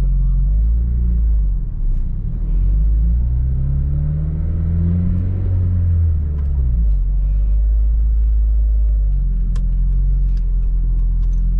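2006 Acura RSX Type-S 2.0-litre four-cylinder, with a short ram intake and Greddy exhaust, heard from inside the cabin as the car pulls away gently while still warming up. The engine note rises for a few seconds, drops about six or seven seconds in, then settles into a steady low drone.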